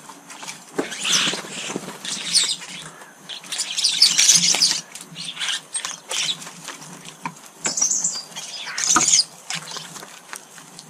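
Birds giving harsh, scratchy calls with wing flutters, in irregular bursts that are loudest about four seconds and nine seconds in.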